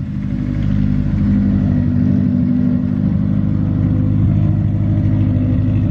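A car engine running at a steady speed, a low even hum that swells slightly over the first second and then holds.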